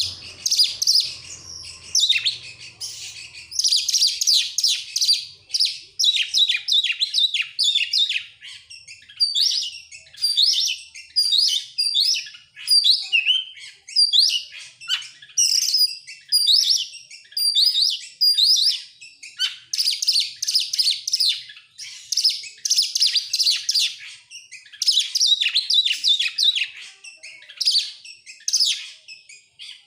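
Oriental magpie-robin (kacer) singing vigorously: a fast, varied run of sweeping whistled phrases and chatter with brief pauses.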